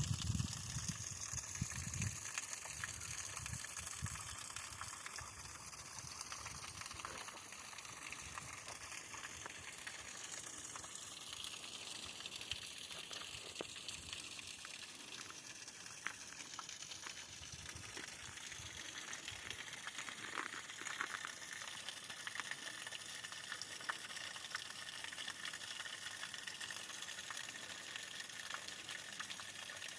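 Water pouring from a pipe and splashing steadily down over ice, a continuous hiss. Some low rumbling in the first two seconds.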